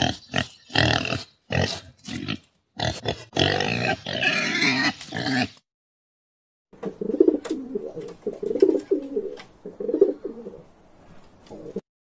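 Wild boar grunting in a quick series of short bursts, then, after a brief silence, domestic pigeons cooing in low, repeated phrases.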